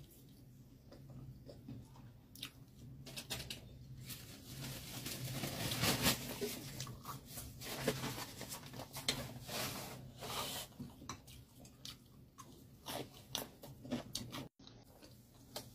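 Close-up chewing of a mouthful of grilled Hungarian sausage: many small wet clicks, thickest and loudest in the middle, over a steady low hum.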